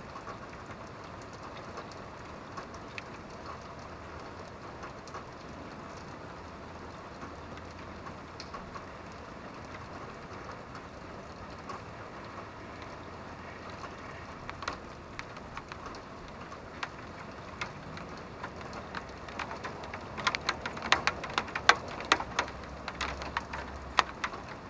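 Steady rain, with sharp individual drops striking a surface. The drops come more often and louder from about halfway through, bunching into a dense run of loud hits near the end.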